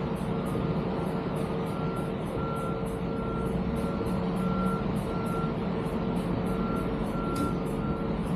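Ducati Diavel 1260S motorcycle's V-twin engine running at an even level, with a high beep repeating at even spacing over it.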